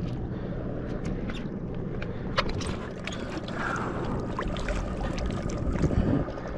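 Water sloshing around a kayak on open water, with scattered small knocks and clicks of gear against the hull over a steady low hum.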